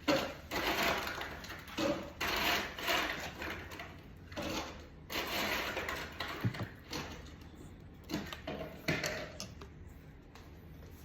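Mechanical rattling and clattering in several bursts about a second long, followed by a few sharp knocks.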